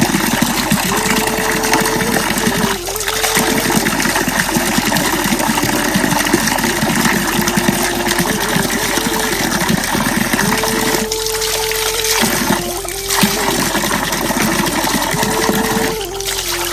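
Steady rush of running water in the rain, loud and even, with a faint held tone that comes and goes several times.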